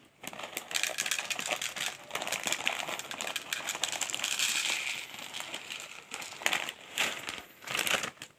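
Dense crinkling and crackling made of many small clicks, with brief drops near the end.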